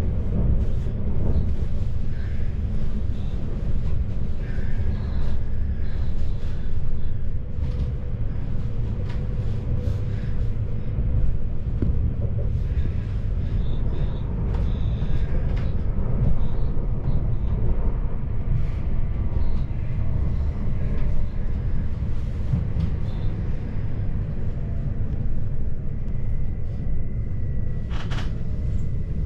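Electric commuter train running, heard from inside the carriage: a steady low rumble of the wheels on the rails. A faint steady whine comes in near the end, along with a few sharp clicks.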